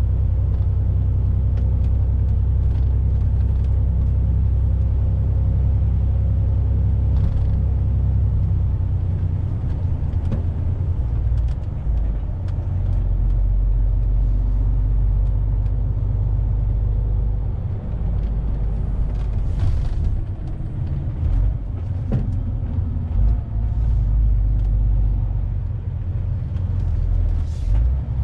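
Truck's diesel engine and cab rumbling while driving, steady for the first third, then more uneven with scattered knocks and rattles.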